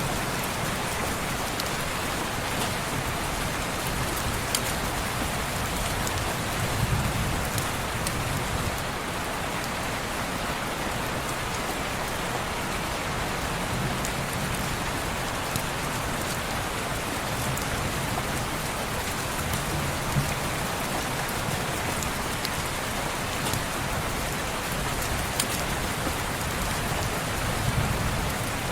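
Steady rain falling on window glass, with a few sharp crackles from a wood fire and a soft low swell about every six or seven seconds.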